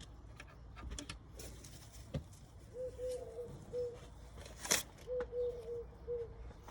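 A dove cooing: two runs of short, low, even coos. A sharp click falls between them.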